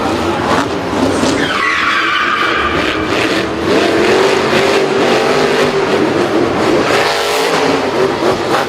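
Racing vehicle engines running with pitch gliding up and down as they rev, over a steady skidding noise of tyres.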